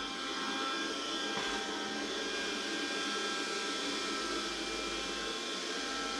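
Kärcher WV6 Premium battery window vacuum running steadily: a motor whine made of several steady tones over an even rush of air.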